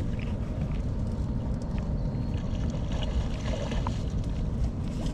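Low, steady rumble of wind buffeting the microphone out on a boat on the water.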